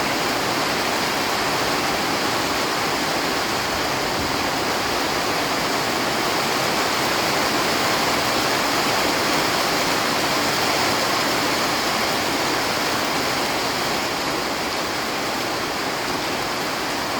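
Heavy rain falling steadily, a dense even hiss with no breaks, easing slightly near the end.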